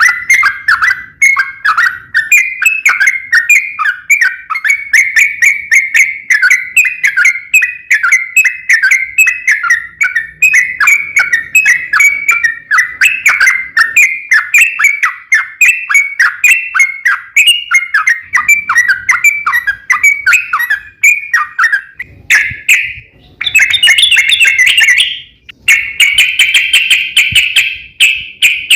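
Yellow-vented bulbul (trucuk) singing a long, rapid chattering song of quick bubbly whistled notes for about twenty seconds. After a brief pause come harsher, denser bursts near the end. This is the long 'ropel' song used as a lure to make other bulbuls answer.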